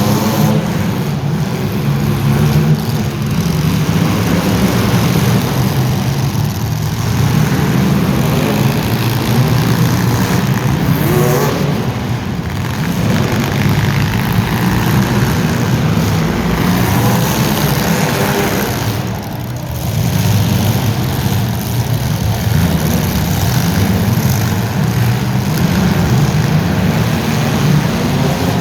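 Racing vehicle engines running hard through a heat, revs rising and falling, with a brief dip about two-thirds of the way through.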